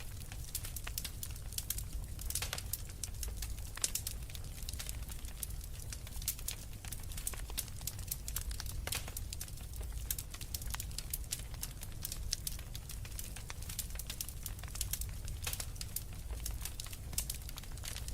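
Wood fire burning in a fireplace: dense, irregular crackling and popping of burning logs over a low steady rumble of flames.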